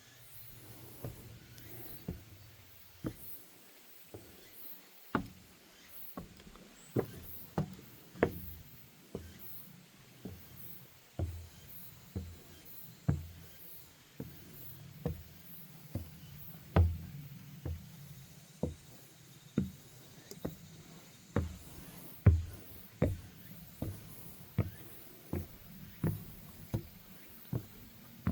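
Footsteps on a wooden boardwalk deck: a steady walking pace of dull thuds with a light knock, roughly one step a second.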